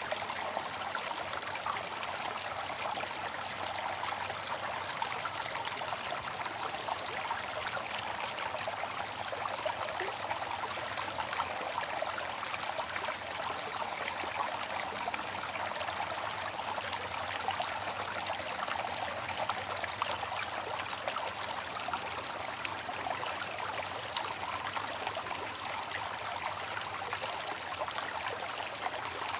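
Water fountain splashing and trickling steadily, a continuous rush of falling water with fine droplet splashes.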